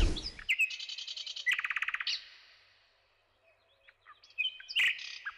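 Songbirds chirping and trilling, with a fast rapid trill about a second and a half in, a pause of about two seconds, then more chirps near the end.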